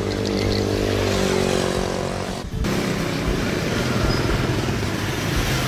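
A motor vehicle's engine running steadily, cut off abruptly about two and a half seconds in and followed by a noisier engine-and-road sound.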